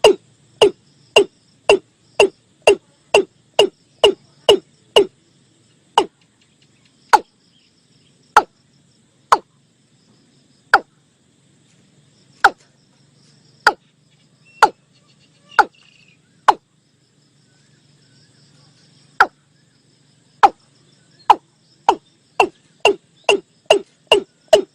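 Recorded watercock calls played back as a lure: a run of short upswept notes, about two a second at first, slowing to roughly one a second, then quickening again near the end.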